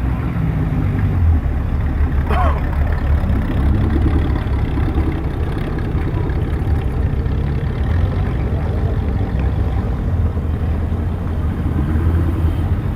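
Car engines running as vehicles drive slowly past in a line, a steady low rumble with revs rising now and then. A brief high chirp comes about two and a half seconds in.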